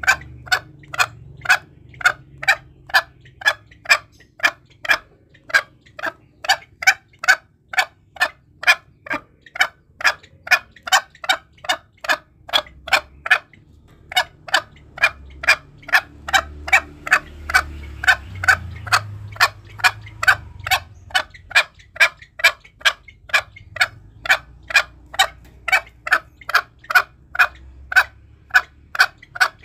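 Green junglefowl calling: a steady run of short, sharp calls, about two a second, with a couple of brief breaks. It is played as a hunting lure call to provoke other junglefowl.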